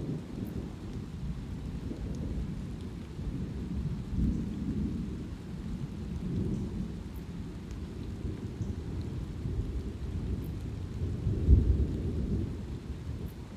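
Thunder rumbling low and continuously under light rain, swelling several times; the loudest swell comes a little after eleven seconds in.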